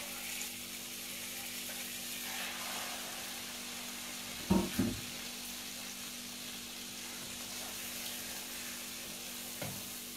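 Chicken pieces frying in hot oil in a pan, a steady sizzling hiss, with two knocks about four and a half seconds in and a lighter knock near the end.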